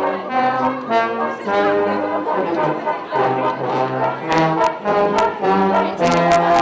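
Brass band playing a tune in held, chorded notes, with a few sharp percussive hits in the second half.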